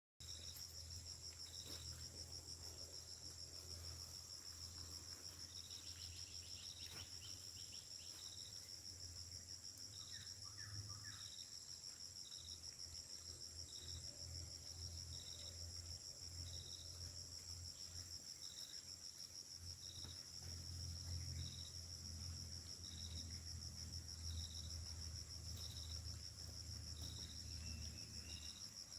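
Crickets and other insects chirring in steady high trills, with a shorter chirp repeating about once a second. Under them runs a faint low engine drone, which the uploader identifies as a palm-oil mill about 15 km away.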